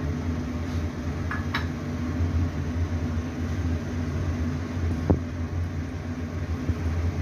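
Chopped onions frying in hot oil in a frying pan: a steady sizzle over a low hum, with a few light clicks about a second and a half in and again near five seconds.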